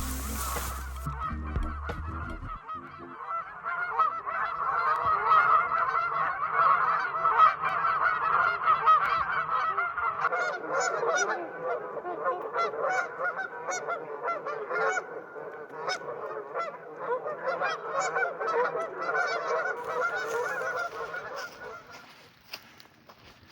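A large flock of geese honking, many calls overlapping in a continuous clamour that dies away near the end.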